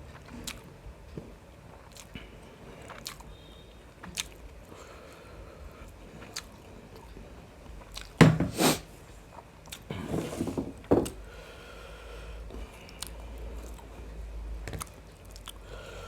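Close-miked mouth sounds of someone eating biryani with mutton gravy: chewing with small wet clicks and lip smacks, and louder bursts of eating noise about eight seconds in and again around ten to eleven seconds.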